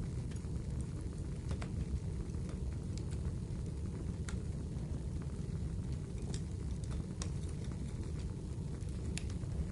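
Wood fire burning in a fireplace: a steady low rumble of the flames with scattered sharp crackles and pops from the burning wood, about half a dozen in all.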